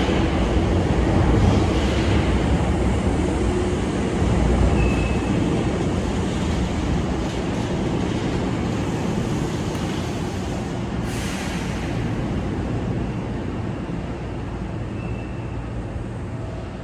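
Hankyu Railway electric train running along the track, its rumble slowly fading as it moves away.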